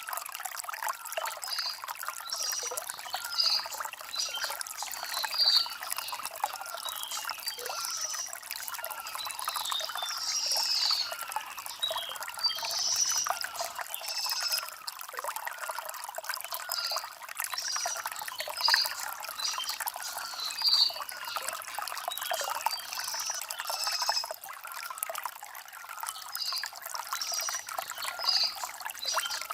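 Shallow stream trickling and babbling over river stones: a steady splashing hiss with many small, irregular bright splashes.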